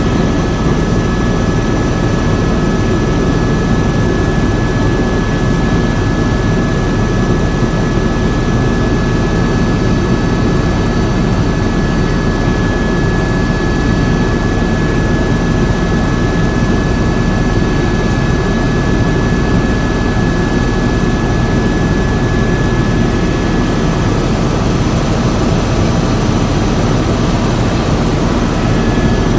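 Tour helicopter running steadily in flight: a loud, even turbine-and-rotor rumble with a steady high whine above it.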